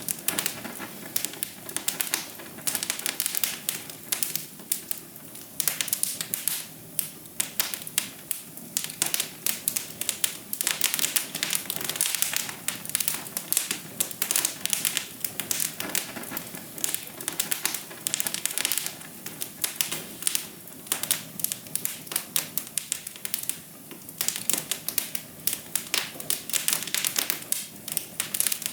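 Wood fire crackling in a fireplace: dense, irregular pops and snaps, bunched in quick clusters, over a steady low hiss of the burning logs.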